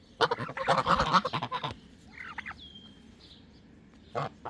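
Domestic geese honking: a loud, raspy burst of calls in the first second and a half, then fainter short bird calls and a thin high chirp.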